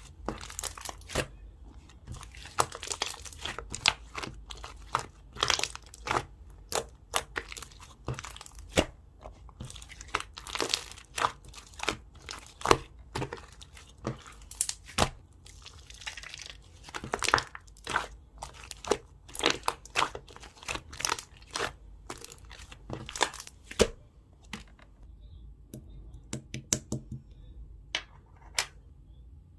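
Jelly slime being squished and kneaded by hand: a fast, irregular run of wet sticky clicks and pops that thins out to scattered ones in the last few seconds.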